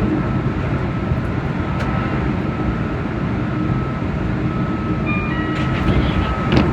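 Keihan electric train running along the track, a steady rumble of wheels on rail heard from the driver's cab, with a faint high steady tone and a few sharp clicks near the end.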